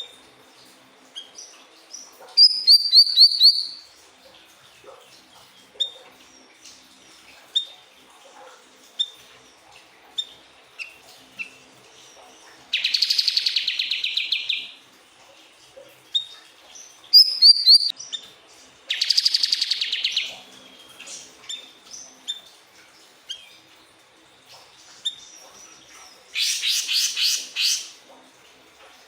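Siri-siri bird singing: scattered short, high chirps broken by loud, rapid, buzzy trills, four times, each lasting about one to two seconds.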